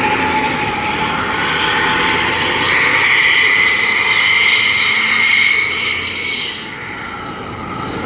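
Intercity bus engine and its loud exhaust running on the move, with a high whine that rises slightly and fades about six and a half seconds in, where the sound gets quieter.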